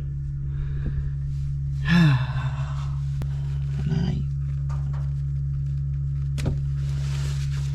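A man grunting with effort about two seconds in and again, more faintly, near four seconds as he strains to work a stuck sensor loose, over a steady low engine hum; a few faint clicks.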